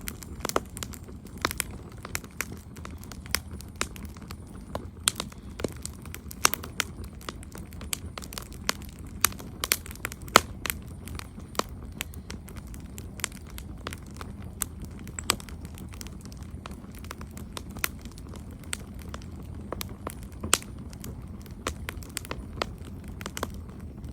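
Campfire crackling: wood burning with irregular sharp pops and snaps over a steady low rush of the flames.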